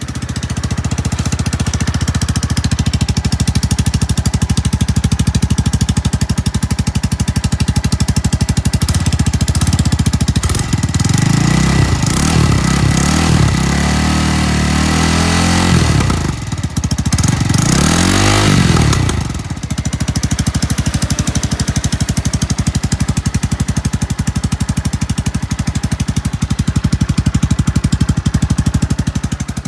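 Honda Grom's 125 cc single-cylinder four-stroke engine idling through an aftermarket muffler. About ten seconds in it is blipped several times, then given one longer rev, and it settles back to a steady idle.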